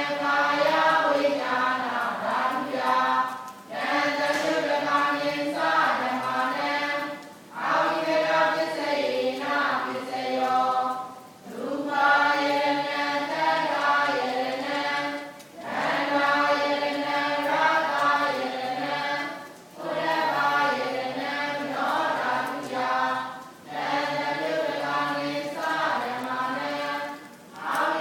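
Group of voices chanting together, Buddhist devotional chanting, in repeated phrases about four seconds long, each ending with a brief pause for breath.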